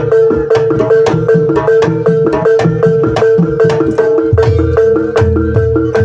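Gamelan music for an ebeg horse-trance dance: mallet-struck instruments play a fast, even repeating pattern over a hand drum, with a heavier low part coming in about four seconds in.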